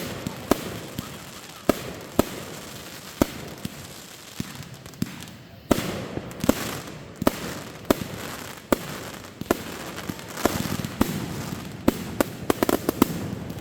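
Fireworks going off: sharp bangs about once a second over a rushing hiss, with a quick run of crackling reports near the end.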